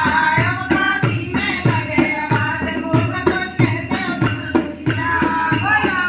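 Languriya folk song: a singing voice over a steady beat of low drum thumps, about two a second, and jingling tambourine-like strokes, about four a second.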